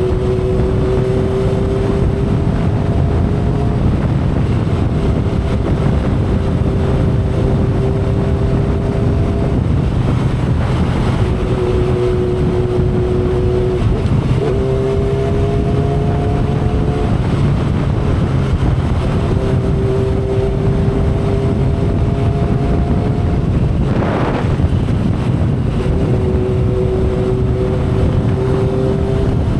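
A 2012 Kawasaki Ninja ZX-10R's inline-four engine cruising at expressway speed, under heavy wind and road rush on the microphone. The engine's hum climbs gently in pitch in stretches, fades out and comes back several times, and there is a brief louder whoosh about three-quarters of the way through.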